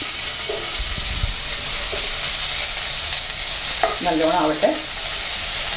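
Sliced onions, garlic and whole spices sizzling in hot oil in a nonstick kadai, stirred and scraped around with a wooden spatula. The sizzle is a steady, even hiss.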